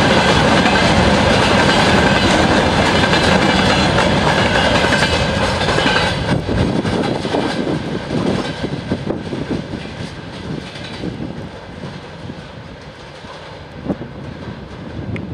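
Freight train of open gondola wagons rolling past close by, the wheels rumbling and clattering on the rails. After about six seconds the steady rumble thins into separate wheel clacks and grows quieter as the wagons draw away.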